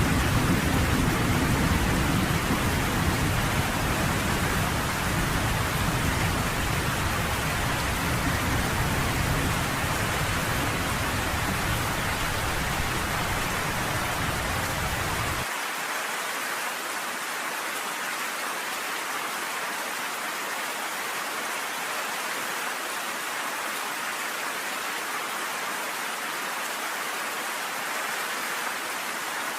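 Steady heavy rain pelting down, with a low rolling thunder rumble dying away through the first half. The deep rumble cuts off suddenly about fifteen seconds in, leaving only the even hiss of the rain.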